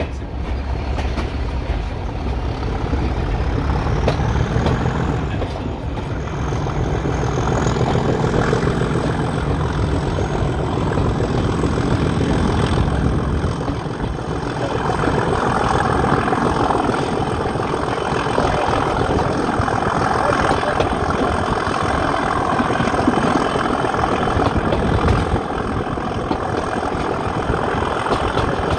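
A heritage diesel locomotive's engine running with a heavy low throb, and a faint high whine that rises over the first several seconds and then holds steady. About halfway through, the throb gives way to a broader, noisier rumble.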